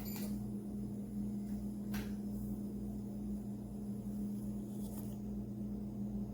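A 52-inch DC-motor ceiling fan running: a steady low hum over an unsteady low rumble, with a few faint ticks.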